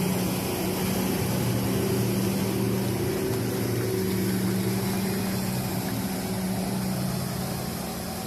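Heavy truck's diesel engine running with a steady low drone under a broad rushing noise.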